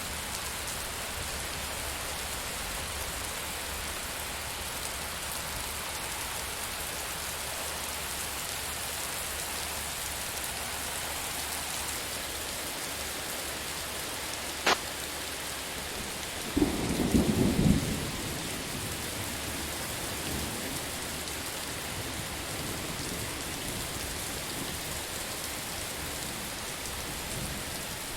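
Steady rain falling, with a sharp crack of thunder a little past halfway, followed about two seconds later by a brief low rumble of thunder, the loudest part.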